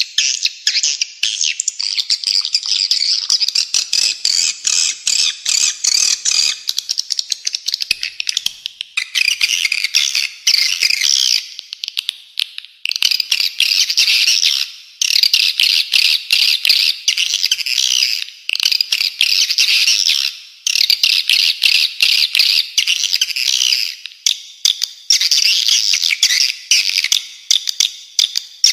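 Recorded bird calls from a spiderhunter-and-swiftlet training track: dense, rapid, harsh chattering with short breaks every few seconds.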